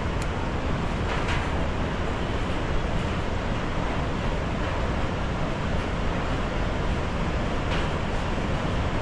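Steady roar of the Devil's Throat waterfall at Iguazú Falls: a huge volume of water crashing down, heard as an even, unbroken rush heaviest in the low end.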